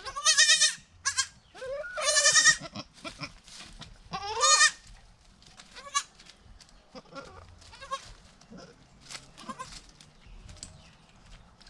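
Goat bleating: three loud, wavering bleats in the first five seconds, then only faint small clicks and rustles.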